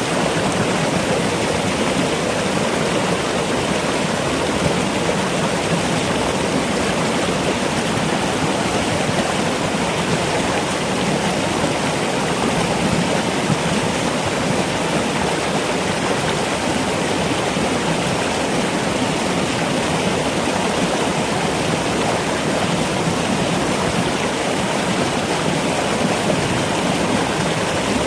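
Steady, unbroken rushing of running water, as from a stream.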